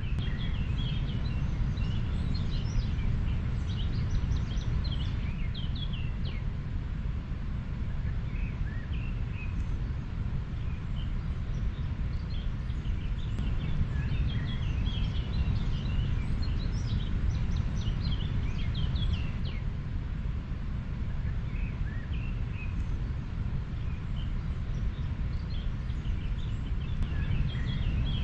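River water flowing with a steady rushing noise, under many short chirps of small birds throughout.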